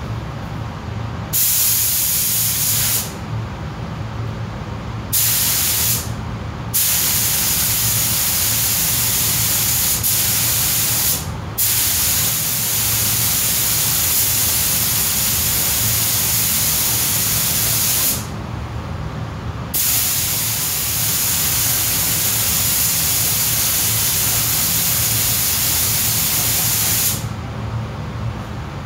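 Compressed-air paint spray gun hissing in five bursts of one to seven seconds, with short pauses between passes, as a full coat of paint is laid on. A steady low hum runs underneath.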